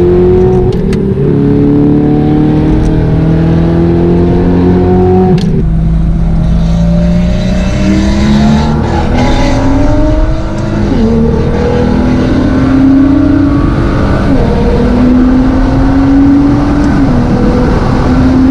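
Audi R8's V8 engine through an Armytrix titanium exhaust, pulling hard on track: its note climbs steadily in long rising sweeps, broken by several gear changes where the pitch drops back.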